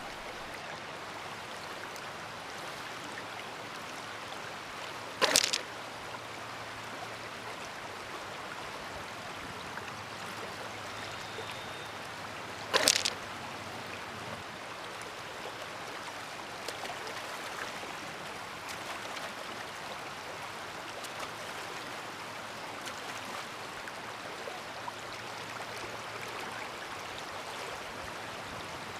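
Steady rushing of a stream. Two sharp knocks stand out above it, about five seconds in and again about eight seconds later.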